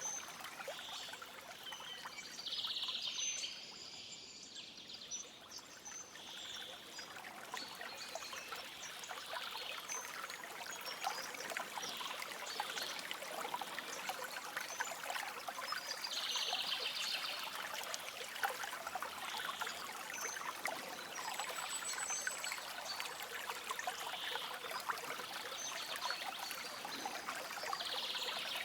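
Shallow stream trickling and babbling steadily over stones, with short bird calls breaking in every few seconds.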